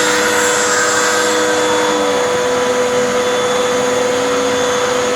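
Hoover WindTunnel 2 vacuum running steadily with its air-driven hand turbo tool spinning, a fainter tone stepping down slightly about two seconds in. Pressed onto the cushion, the turbo brush barely slows down, which the tester puts down to its suction relief holes.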